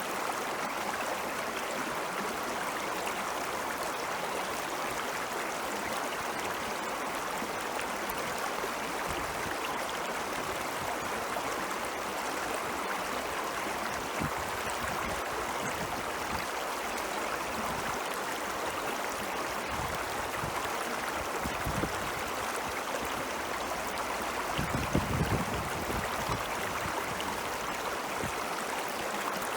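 Stream of glacial meltwater rushing and gurgling steadily. A few brief low rumbles rise out of it, the strongest near the end.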